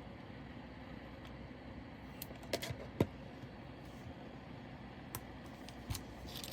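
Small plastic clicks and taps from handling diamond-painting drills and their little containers and bags. There are a few light clicks about two and a half seconds in and a sharper one about three seconds in, then two more near the end, over a steady low hum.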